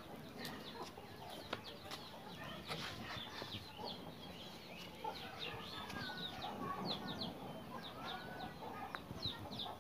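Birds chirping faintly: many short, high, falling chirps in quick succession, with a few lower calls among them.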